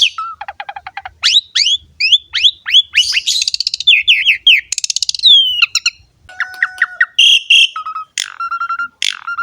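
Asian pied starling (jalak suren) singing a loud, varied song: a fast run of whistled up-and-down sweeps, then short repeated notes mixed with harsh chatter in the second half.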